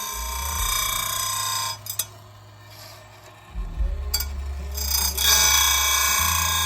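Electric chainsaw-chain grinder: the motor hums and the spinning wheel grinds a saw-chain tooth with a steady high-pitched ringing. The grinding stops about two seconds in, leaving the motor hum and a couple of clicks from the chain clamp and lever. It starts again about five seconds in as the head is brought down onto the next tooth.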